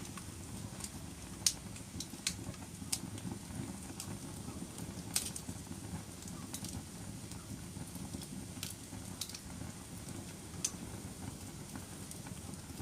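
Wood fire in a fireplace crackling: a low steady rumble of flames with scattered sharp pops, the loudest about a second and a half and five seconds in.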